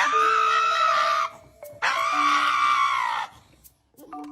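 A dog screaming in fear at nail clipping: two long, high cries, each over a second, about half a second apart. Faint steady music tones sit underneath.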